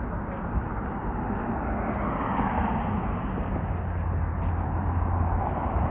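Motor traffic by a freeway off-ramp: a steady rush of vehicle noise with an engine drone that grows louder in the second half as a vehicle draws closer.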